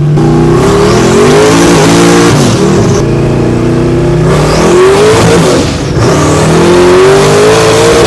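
Engine of a 1969 Camaro under hard acceleration, loud. Its pitch climbs and drops back several times.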